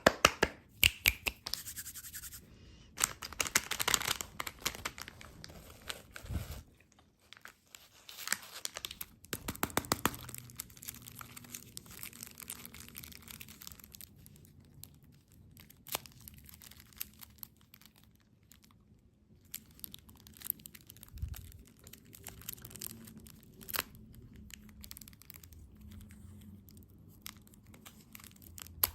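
Crinkling, crackling and tearing of candy wrappers and packaging being handled, densest in the first few seconds and again about a third of the way in, then sparser crackles.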